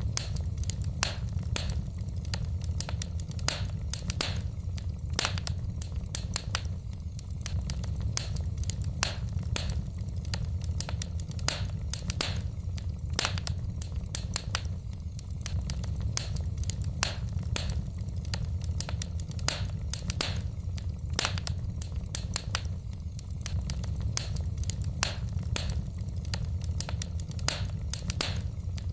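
Wood fire in a fireplace crackling: frequent, irregular sharp pops and snaps of burning logs over a steady low rumble.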